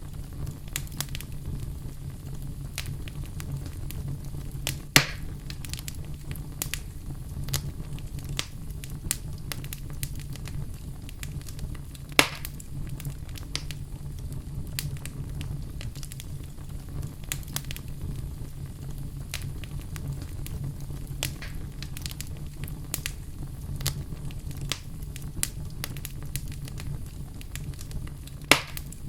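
Fireplace fire crackling: a steady low rumble of flames under frequent small crackles, with three sharp, louder pops about five seconds in, about twelve seconds in and near the end.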